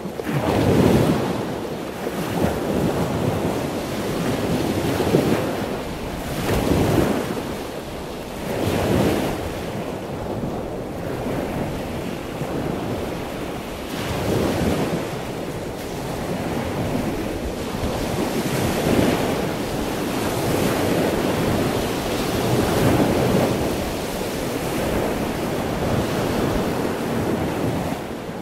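Waves washing on a shore, a steady rush that swells and falls every few seconds.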